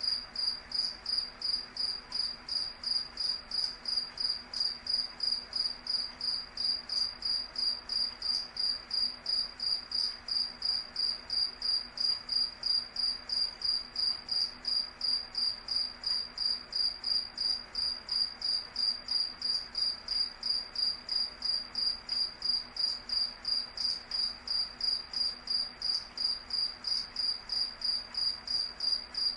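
A cricket chirping in a steady, even rhythm of rapid, high-pitched chirps that keep the same pitch and pace throughout.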